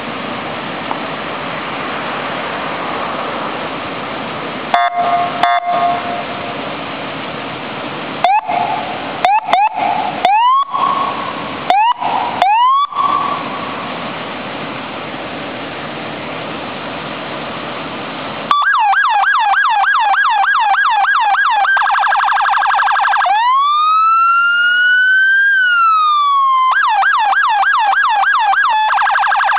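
Federal Signal SmartSiren SS2000SM police siren run through its tones: a few short blips and brief rising whoop chirps over a steady background noise, then about eleven seconds in a loud continuous yelp of fast up-and-down sweeps, a short faster passage, a slow wail rising and falling, and the fast yelp again.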